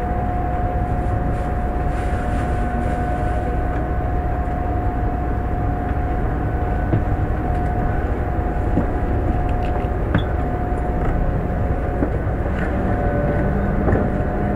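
Running noise inside an E1 series Max double-deck Shinkansen moving slowly out of a station: a steady low rumble with a constant mid-pitched whine and a few faint clicks.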